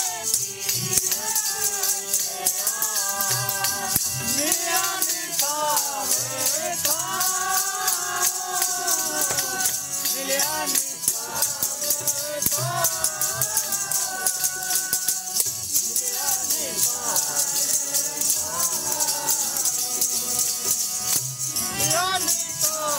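Sikh devotional kirtan: voices singing a flowing melody over a fast, steady jingling percussion rhythm.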